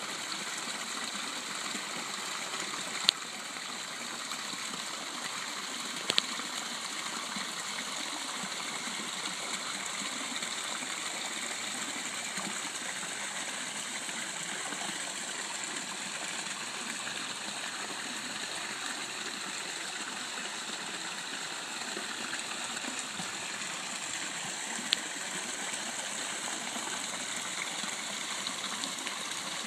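Garden pond waterfall: water falling and splashing steadily into the pond. Three brief sharp clicks stand out over it.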